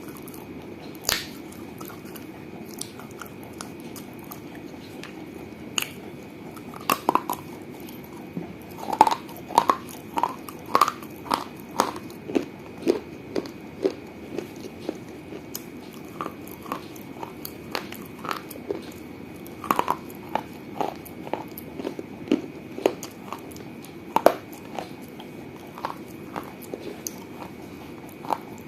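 Teeth biting and crunching pieces of a small fired-clay piggy bank (gullak): irregular sharp cracks and crunches in uneven runs, densest about a third of the way in.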